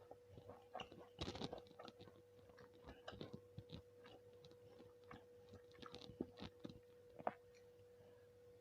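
Close-miked chewing and biting of food, soft wet mouth sounds with a few crunchy bites, loudest about a second in and again near the end. A faint steady hum runs underneath.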